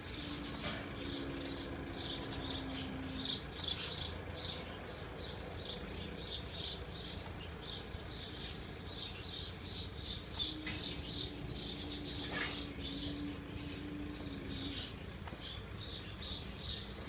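Birds chirping over and over, two or three short high chirps a second. A low steady hum comes in twice for a few seconds.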